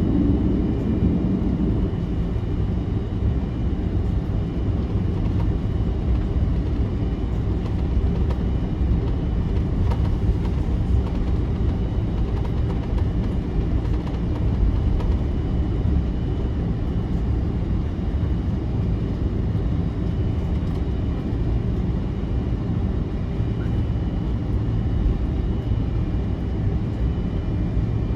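Cabin noise of an Airbus A330-300 on the ground before takeoff: its Rolls-Royce Trent 700 engines running at low taxi power, giving a steady low rumble with a faint high whine. A lower hum at the start fades about a second in.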